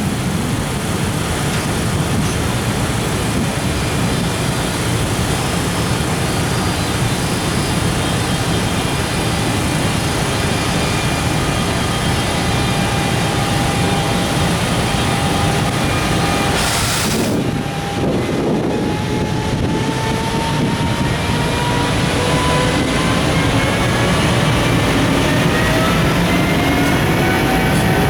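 JR Freight EF510 electric locomotive and its container wagons pulling away, a loud steady rumble with a motor whine that climbs slowly in pitch through the second half as the train gathers speed.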